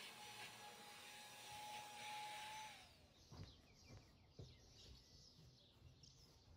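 Near silence: a faint steady hiss with a held tone that glides down and stops about three seconds in, then a few soft knocks and faint high chirps.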